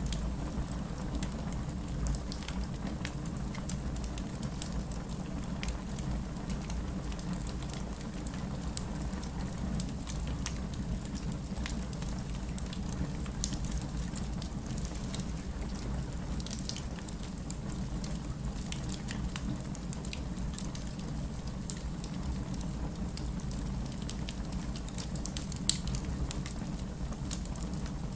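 Wood fire burning in a fireplace: a steady low rush of flames with irregular sharp crackles and pops from the burning logs, two of them louder, about halfway through and near the end.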